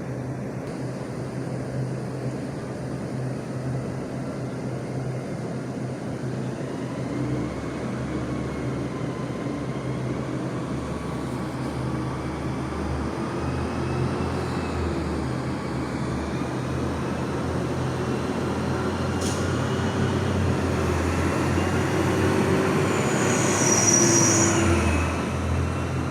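Garbage truck engine running, with a whine that slowly rises in pitch and grows louder, and a high squeal near the end.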